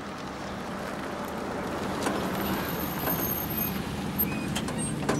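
A motor vehicle's engine running as it drives up and slows, growing louder over the first couple of seconds and then holding steady.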